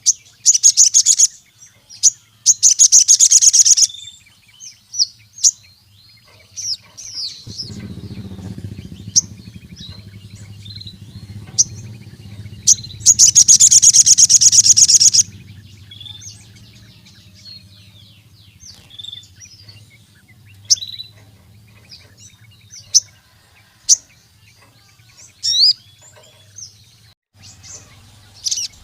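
Sogon (crimson sunbird) singing: sharp, high, scattered chirps broken by rapid, loud, buzzing trills, two near the start and a longer one around halfway through.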